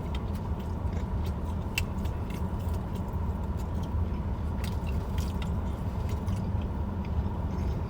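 Chewing on a mouthful of fried food, with scattered small crunches and clicks, over a steady low background hum.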